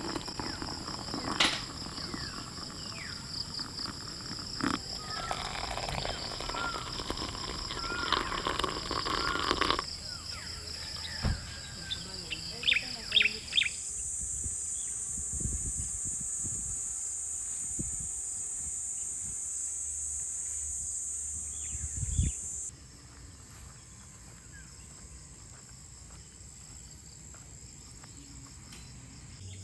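Outdoor ambience of insects droning steadily at a high pitch, with birds chirping and calling over it and a few short knocks. The mix changes suddenly several times as clips are cut together, and it turns quieter about two-thirds of the way through.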